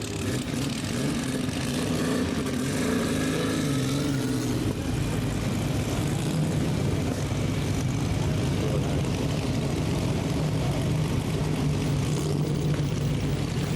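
1933 Stutz DV32's straight-eight engine running as the car moves slowly, its pitch rising and falling over the first few seconds, then settling into a steady low drone.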